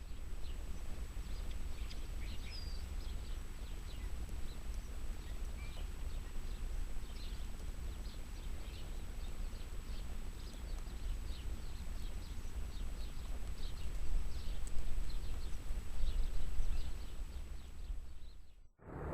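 Small birds chirping on and off over a steady low outdoor rumble.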